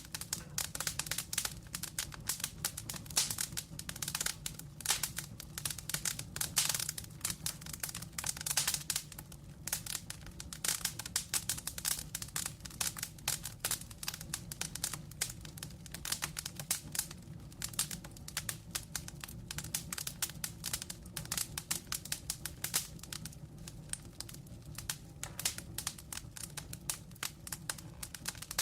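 Wood fire crackling, with a constant irregular patter of small pops and snaps over a low steady rumble of flame.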